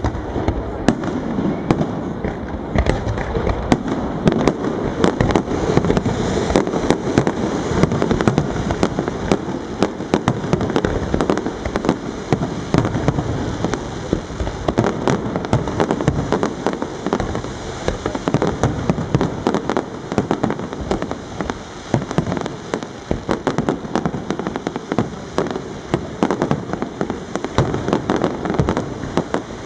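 Aerial fireworks display: a continuous barrage of shell bursts and crackling stars, many sharp bangs and crackles overlapping every second with no let-up.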